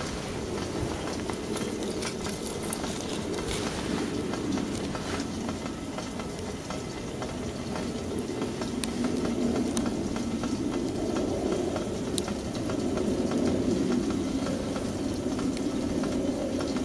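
Campfire burning: a steady low rush of flame with scattered crackles and pops from the burning wood.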